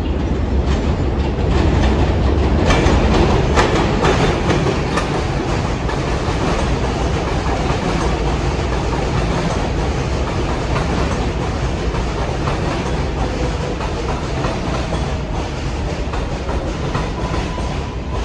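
New York City subway train of R142/R142A cars running through the station, a steady heavy rumble with wheels clicking over rail joints. The clicks come thickest about three seconds in.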